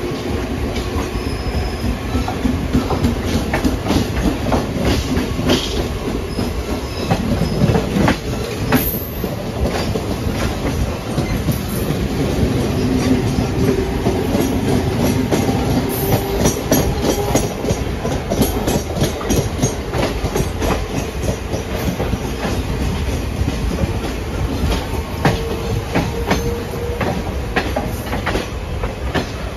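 Passenger train coaches running along the track, heard from on board: wheels clicking over rail joints many times over a steady rumble, with faint drawn-out wheel squeal at times.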